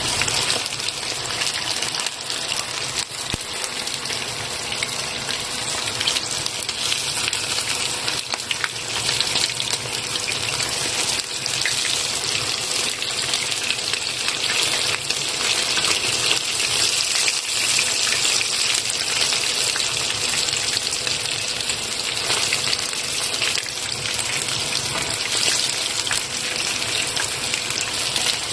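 Karaage (Japanese fried chicken) deep-frying in hot oil: a dense, steady sizzle with fine crackling and pops throughout.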